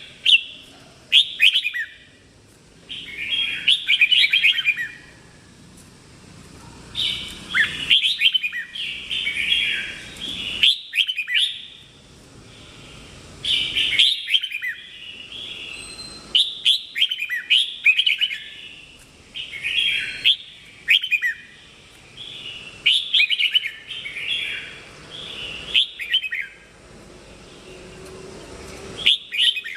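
Red-whiskered bulbul singing loud, short warbled phrases, one every second or two, with a few sharp clicks between them.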